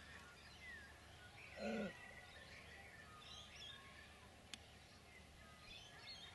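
Quiet rural air with faint bird chirps and calls. About a second and a half in there is one brief, louder, low pitched call, and later a single faint click.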